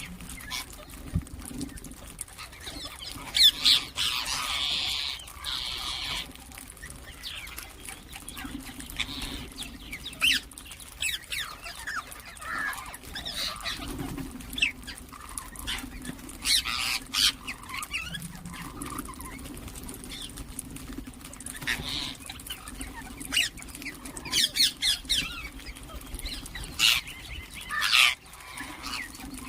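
Ringneck parakeets calling: repeated short, shrill squawks and chirps at irregular intervals, some louder bursts among quieter chatter, over a steady low hum.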